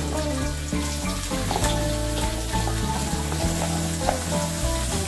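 Sliced carrots sizzling in hot oil in a wok with garlic and shallots. A metal spatula clicks against the wok a few times.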